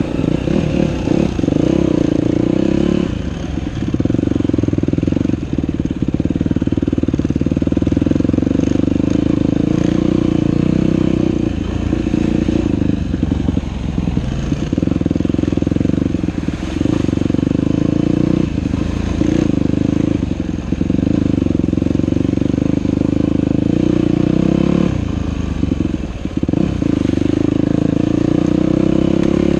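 Dirt bike engine running under way on a trail, its note dropping briefly several times as the throttle is rolled off and picked up again.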